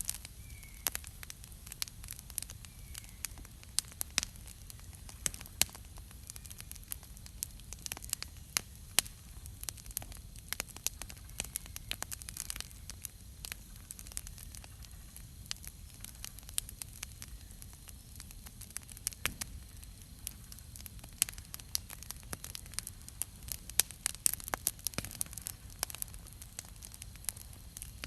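Wood campfire crackling, with many irregular sharp pops and snaps scattered throughout.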